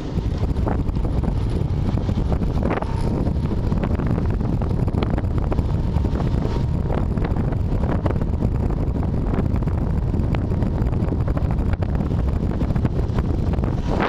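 Steady wind noise on a dashcam microphone over the low rumble of a vehicle on the move, with scattered light ticks.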